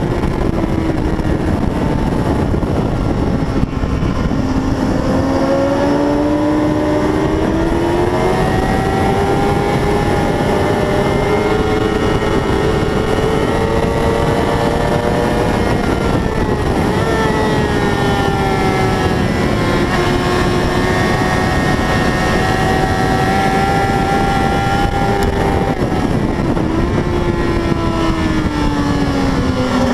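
600 cc racing motorcycle engine running hard at high revs, its pitch climbing and falling slowly as the bike accelerates and eases off, with a dip about 16 s in and a drop near the end. A heavy, steady rushing noise lies under it.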